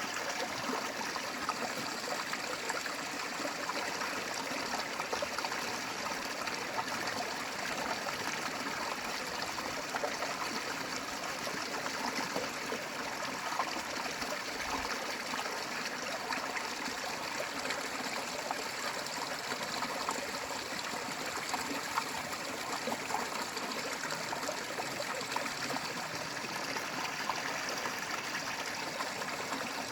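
Valley stream flowing steadily, an even rush of water.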